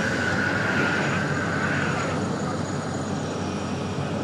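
Hyundai excavator's diesel engine running steadily under load, with a high hydraulic whine that swells and then falls away about two seconds in.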